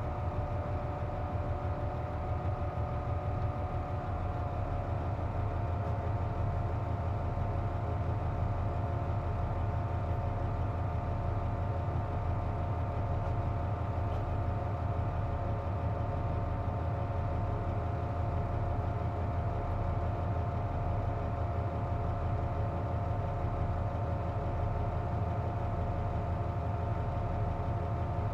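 Hino Rainbow KC-JP250NTN bus engine idling, heard from inside the cabin, with a steady whine of several tones above the low engine rumble that drops slightly in pitch about four seconds in. The air conditioning is on, and this whine is the bus's abnormal noise.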